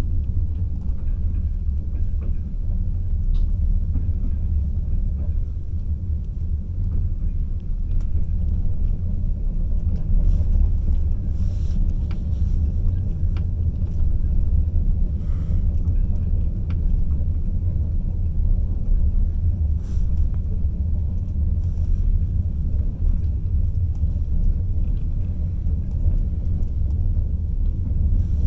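Passenger train running on the rails, heard from inside the carriage: a steady low rumble with a few faint clicks.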